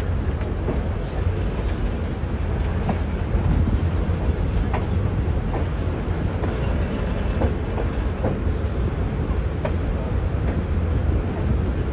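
Passenger train rolling on jointed track, heard from one of its cars: a steady low rumble of wheels on rail with irregular clicks and clacks.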